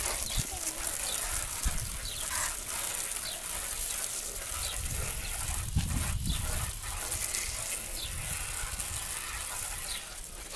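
Water spraying from a garden hose nozzle, a steady hiss as soapy suds are rinsed off a truck's body.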